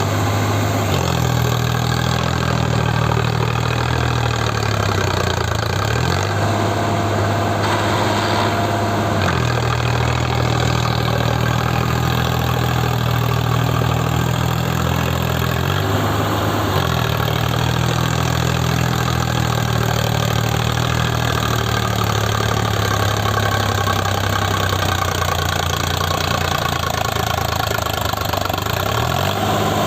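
Tractor diesel engine running steadily under load while stuck in mud. Its speed dips sharply and recovers about five times.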